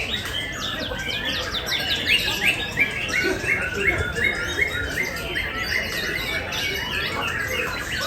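Many songbirds singing and chirping over one another. Through the middle, one bird repeats a short falling chirp about three times a second.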